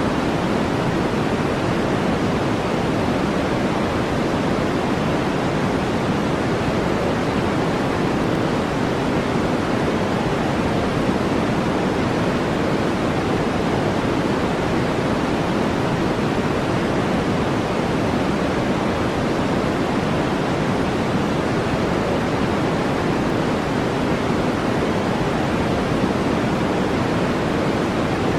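Steady brown noise: an even, unbroken rush with its weight low and deep, holding the same level throughout.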